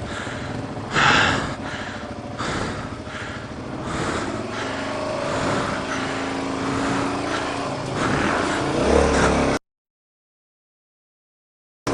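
Suzuki DR-Z400 single-cylinder four-stroke dirt bike engine running and revving under load while climbing over rocks, with scraping and clatter mixed in. The sound cuts off abruptly about three-quarters of the way through.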